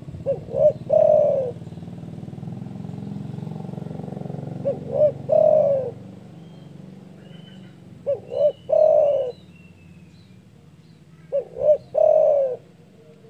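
Spotted dove (derkuku) cooing four times, about every three and a half seconds. Each phrase is two short coos and then a longer, slightly falling coo. A low hum lies under the first two calls and fades out about halfway through.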